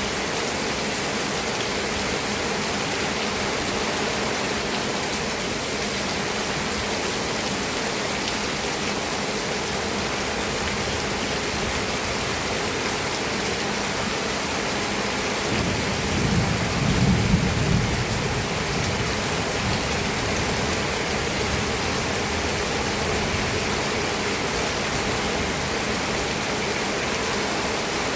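Steady heavy rain. A little past halfway through, a low rumble of thunder rises and fades over about three seconds.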